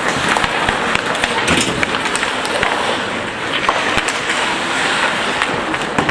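Ice hockey play in a rink: skate blades scraping and carving the ice, with frequent sharp clacks of sticks and puck and voices in the background.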